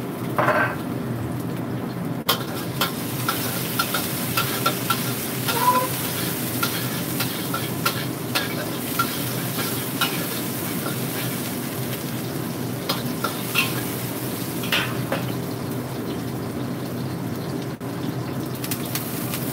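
Garlic and chili sizzling in hot oil, with a spatula stirring and clicking against the pan. The hiss comes up sharply about two seconds in and eases near the end, over a steady low hum.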